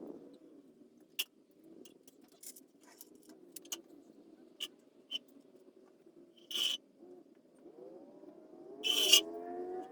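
Scattered sharp metallic clinks and knocks of hands-on work on a car, with a louder clatter about two-thirds of the way in and another near the end, alongside a rising, wavering squeal over the last two seconds.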